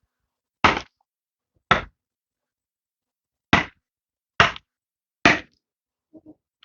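Five sharp whacks, the first two about a second apart, then a pause of nearly two seconds, then three more close together.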